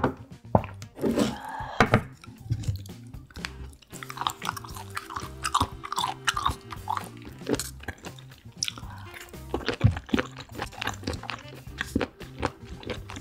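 Close-miked chewing of seafood: many short, crisp crunching bites, over soft background music.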